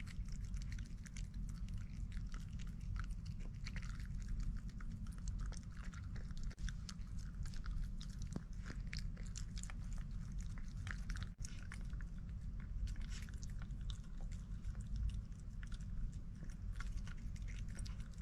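A person chewing food, with many small wet clicks and smacks, over a steady low hum.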